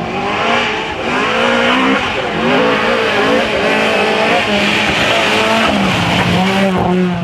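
Historic rally car engine revving hard, its pitch climbing and dropping several times as it changes gear, then holding a steadier note for the last few seconds.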